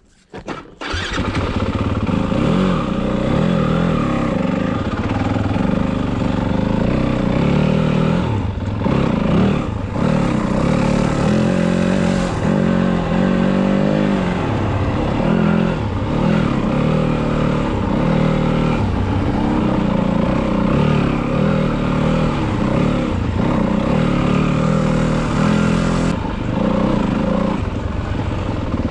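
Yamaha WR250F's single-cylinder four-stroke engine running under way on a trail ride, its revs rising and falling as the throttle and gears change. The sound cuts in about a second in.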